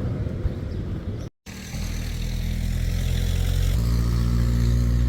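An engine running steadily, its pitch and loudness stepping up once a little past halfway, after a brief dropout about a second in.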